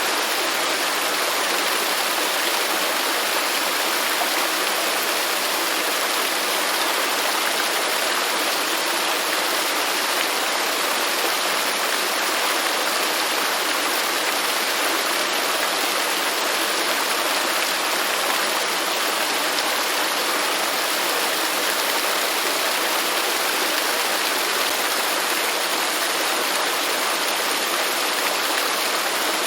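Waterfall: falling water rushing steadily, an even hiss with little low rumble and no change.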